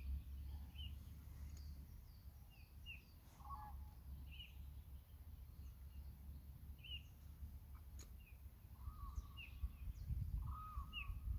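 Small birds chirping: short high chirps at irregular intervals, every second or so, with a few lower calls near the end, over a faint steady low rumble.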